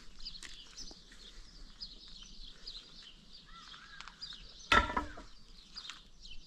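Small birds chirping repeatedly in the background, with a few short curved calls. About five seconds in, a brief, much louder sudden sound cuts through.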